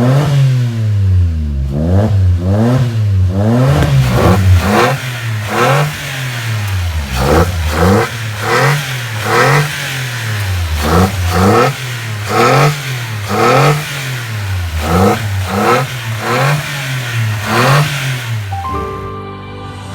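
Toyota Raize with an aftermarket catback exhaust, revved repeatedly in quick throttle blips, the pitch rising and falling with each blip, roughly one or two a second. Music comes in near the end.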